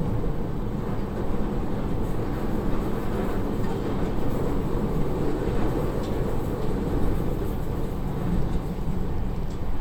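Narita Line electric train running at speed between stations, heard from inside the passenger car: steady low running noise of wheels on rails and the car's motors.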